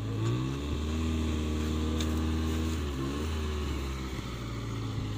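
Small hatchback's engine running steadily. Its pitch drops about half a second in, holds lower, and rises again around three seconds, as the driver works it while the car is pushed with a wheel that will not turn.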